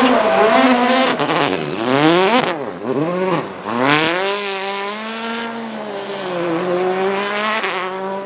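Rally car engine revved hard, its pitch climbing and dropping sharply several times in the first few seconds. It then holds a fairly steady note, dipping slightly and rising again near the end.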